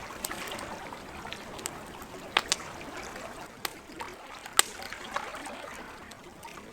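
Campfire crackling, with sharp wood pops scattered irregularly and the loudest pop a little past the middle, over a steady wash of lake water lapping.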